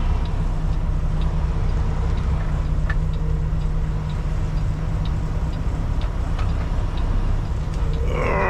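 Semi truck's diesel engine running steadily at low speed, a constant low rumble, with a faint regular ticking over it.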